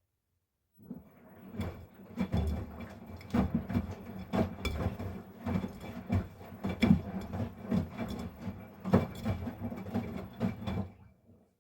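Miele Professional PW 6065 Vario washing machine's drum turning during the main wash, tumbling soft toys through the water with irregular knocks and rattles. The drum starts about a second in and stops near the end: one turning phase of the wash rhythm between pauses.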